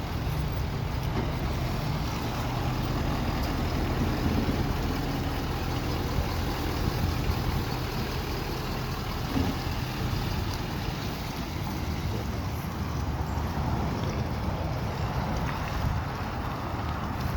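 Ford F-350 King Ranch dually pickup's engine running steadily as the truck pulls in, a low drone that holds even throughout.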